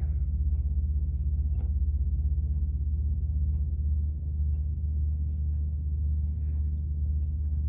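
Steady low electrical hum, with faint soft rustles and light taps from yarn being handled and tied.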